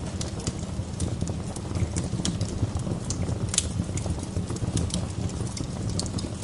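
Wood fire burning in a fireplace: a steady low rumble of flames with frequent irregular crackles and sharp pops, one louder pop about three and a half seconds in.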